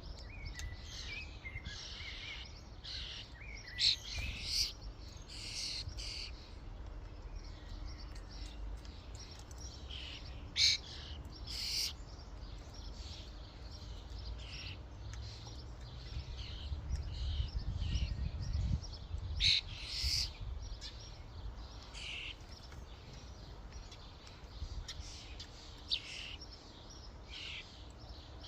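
Common starlings calling at a feeder: many short, scattered chirps and whistles overlapping throughout, over a low rumble that swells past the halfway point.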